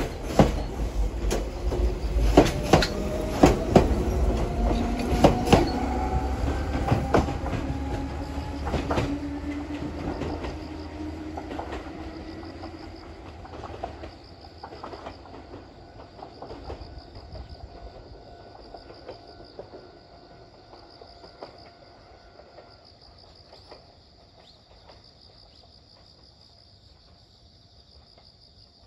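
Meitetsu electric commuter train pulling away and accelerating: its motors whine upward in pitch while the wheels clack over rail joints, and the sound fades steadily into the distance. Crickets chirp steadily as the train dies away.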